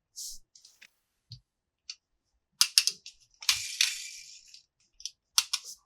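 Hard plastic toy parts being handled, clicking and tapping against each other in separate small knocks. There is a short rustle about three and a half seconds in.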